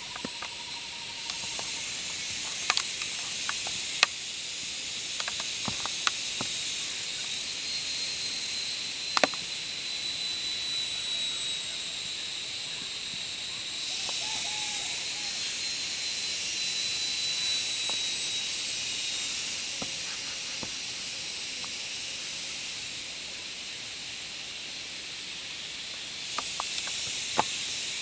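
Jungle insects, likely cicadas, in a steady high-pitched chorus with thin whining tones. Layers of the chorus swell in and drop out a few times. Scattered sharp clicks and snaps run through it.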